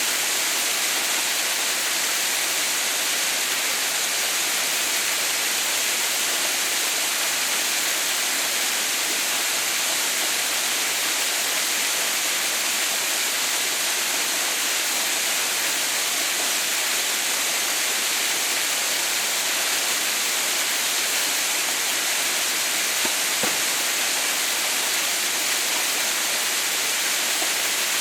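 Waterfall, partly frozen into an icefall, with water falling in a steady, even rush. There is one faint tick about 23 seconds in.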